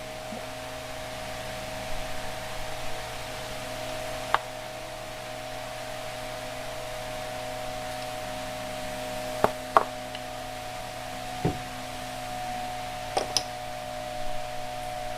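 Steady background hum with a fixed tone, with scattered short metallic clinks and knocks, about six of them, as hand tools and parts are handled during the teardown of a golf cart engine.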